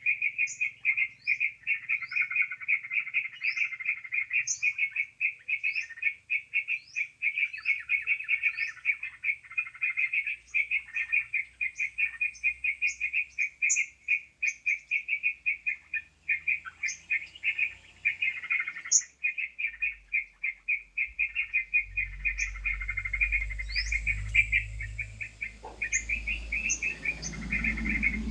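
Bird-lure recording of yellow-vented bulbul (trucukan) calls: continuous rapid chattering, with short rising chirps about once a second over it. A low rumble joins in the last third.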